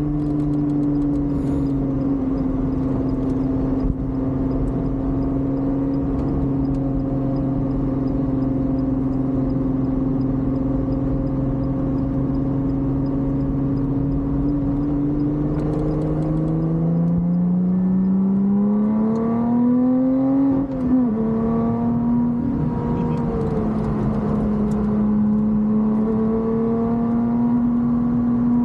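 Lotus Exige 420 Final Edition's supercharged V6, heard from inside the cabin. It holds steady revs for a long stretch, then revs up about two-thirds of the way through and shifts up with a brief dip in pitch. It then runs steady again, slowly climbing.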